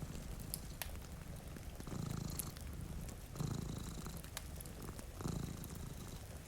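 Domestic cat purring, a low rumble that swells and fades in slow breaths about every two seconds, over sharp crackles from a wood fire and a steady hiss of rain.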